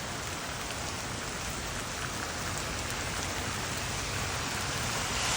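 Heavy rain pouring down in a steady, dense hiss, growing slightly louder toward the end.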